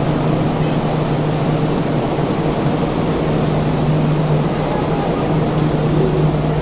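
Steady hum of a train standing at a station platform, over an even background noise of platform ambience.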